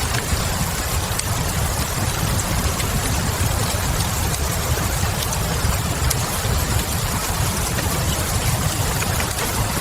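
Fireplace fire crackling with steady rain: a constant low rumble and even hiss, with small scattered pops throughout.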